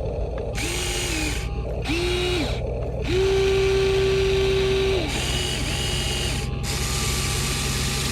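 Huina 1593 radio-controlled toy excavator's small electric motors and gear drives whining as it works: two short whines, then a longer steady one lasting about two seconds, then another short one. A steady low motor hum runs underneath.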